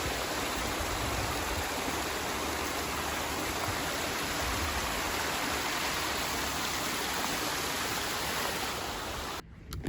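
Small woodland waterfall and stream rushing in a steady, even wash of water noise, which cuts off suddenly near the end.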